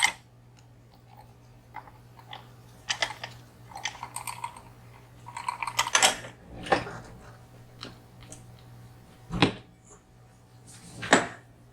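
Irregular small clicks, taps and rustles of hands moving small objects about on a workbench, the loudest sharp knocks coming a few seconds apart, over a steady low hum.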